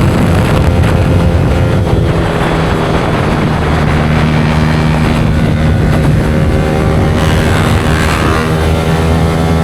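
Yamaha R15 V4 motorcycle's single-cylinder engine running through an aftermarket Leo Vince exhaust at a steady pace while riding, with wind noise.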